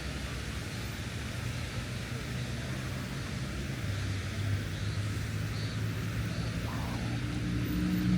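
Street traffic: a motor vehicle's engine hums close by and grows louder near the end, over a steady hiss of background noise.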